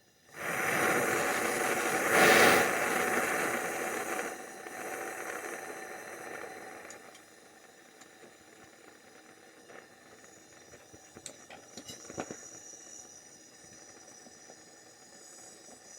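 A sudden loud hissing rush that eases off over the next few seconds, followed by a few faint clicks and taps.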